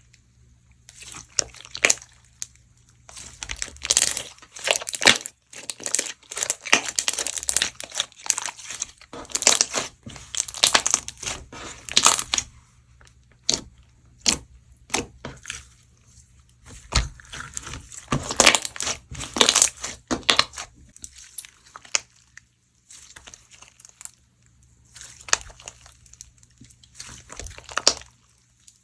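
Flake slime being squeezed, pressed and stretched by hand, its embedded crunchy flakes giving off crackling, crinkling crunches in irregular bursts separated by short pauses.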